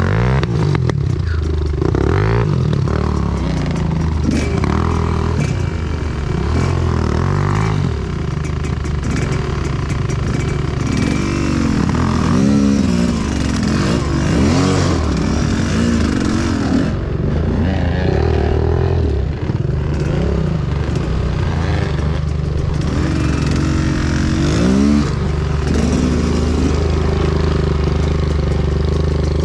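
Enduro motorcycle engine revving up and down over and over while riding, with rattling clatter from the bike.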